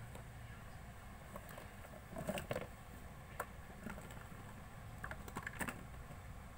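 Slime being mixed and squeezed by hand, with faint sticky clicks and squishes that bunch up about two seconds in and again near the end.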